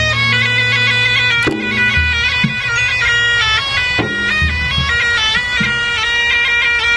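Traditional Maros gendang ensemble: a shrill reed wind instrument plays a stepping, ornamented melody over low drum strokes.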